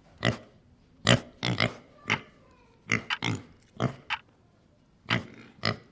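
Domestic pig grunting: a string of about a dozen short grunts at uneven intervals, with brief pauses between them.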